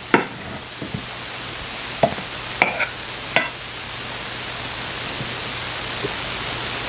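Steady hiss of a saucepan of Marsala wine and chicken stock heating on the stove, growing slowly louder. A few short sharp knocks sound over it in the first half.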